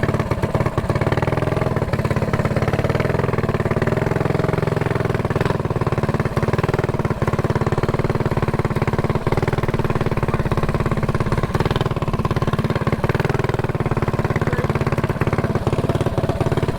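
Mini bike's small engine running steadily at low, even revs, with a slight waver in pitch around four seconds in.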